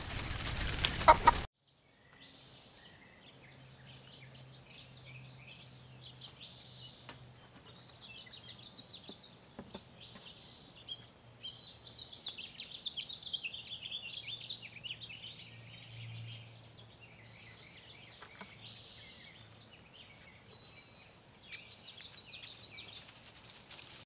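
Birds calling and chattering with warbling, scratchy notes, and twice a run of very high, thin repeated notes, over a faint low hum. Before this, a loud rustling noise fills the first second and a half and cuts off suddenly.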